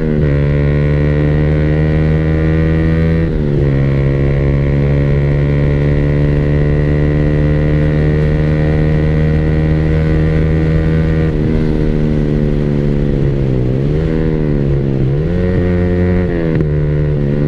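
Yamaha R15 V3's 155 cc single-cylinder engine through an aftermarket SC Project exhaust, riding along at a steady cruise. The exhaust note holds a steady pitch, shifts a few seconds in and again past the middle, then dips and picks up twice near the end as the throttle changes.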